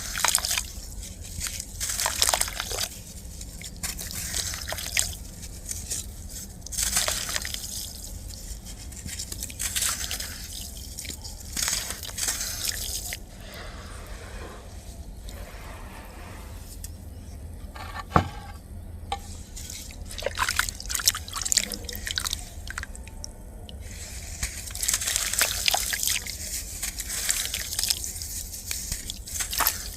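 Clumps of dry black sand crumbling and dropping into water, crunching and splashing in bursts a few seconds apart. There is a single sharp click about midway.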